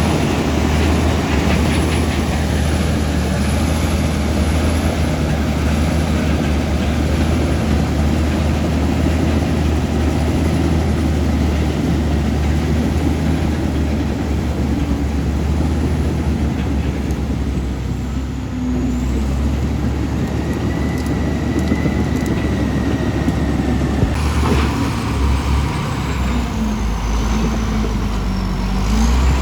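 Komatsu D65E bulldozer's diesel engine running steadily, with a deep low rumble and broad mechanical noise over it.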